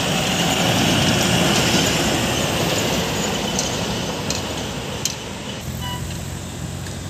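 A truck passing close by on a highway: its engine and tyre noise is loudest in the first couple of seconds and then fades as it moves away.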